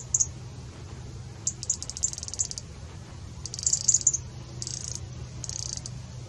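A songbird singing several short bursts of rapid, high chirping trills, over a low steady hum.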